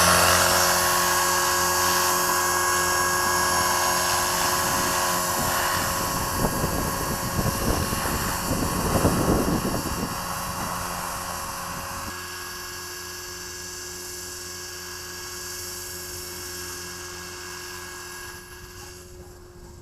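Tarot 450 electric RC helicopter in flight: a steady whining drone of its motor and rotor, with wind gusting across the microphone around the middle. It grows gradually quieter, and right at the end the pitch starts to drop as the rotor slows.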